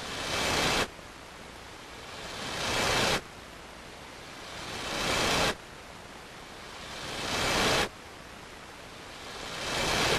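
A hiss that swells up over about a second and cuts off sharply, repeating five times at even intervals of a little over two seconds.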